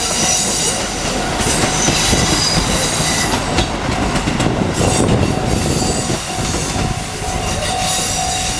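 Diesel train passing close by: wheels running over the rails with a steady high-pitched wheel squeal.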